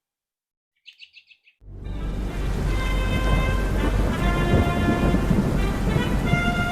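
A short run of high bird-like chirps, then, about a second and a half in, a steady rumble of thunder and rain starts with held musical notes sounding over it.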